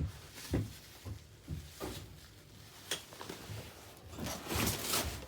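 Handling noise from unpacking ceiling fan parts: a series of light knocks and clunks, then denser rustling of packaging from about four seconds in.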